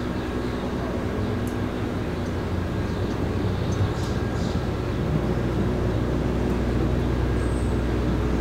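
A train's low, steady hum and rumble, growing a little louder.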